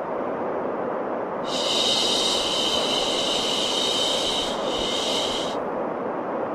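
Steady baby-sleep white noise, with a long shushing 'shhh' laid over it from about a second and a half in until near the end, briefly dipping once.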